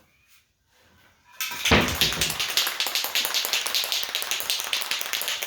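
Aerosol can of black stove paint being shaken hard, its mixing ball rattling in quick, regular clicks; it starts suddenly about a second and a half in.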